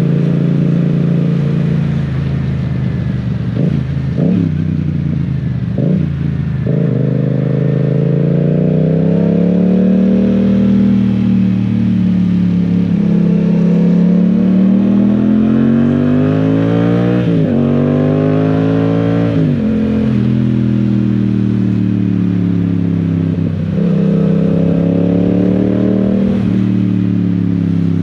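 Yamaha Tracer 700's 689 cc parallel-twin engine running under way, its pitch climbing and falling as the revs change, with quick dips and recoveries typical of gear changes a few times, around four and six seconds in, twice near the middle, and once near the end.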